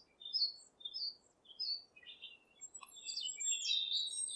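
Small birds chirping and twittering, many short high calls overlapping, busier in the second half.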